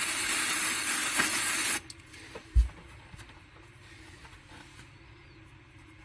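Aerosol solvent cleaner sprayed into a cassette deck mechanism, a steady loud hiss that cuts off sharply about two seconds in. A single low thump follows shortly after, then only faint handling sounds.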